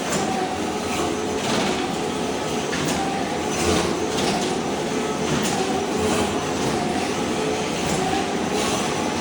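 Ride-on floor scraper running, its blade stripping thin-set tile mortar off a concrete slab: a steady machine noise with a faint wavering hum and frequent irregular scraping cracks.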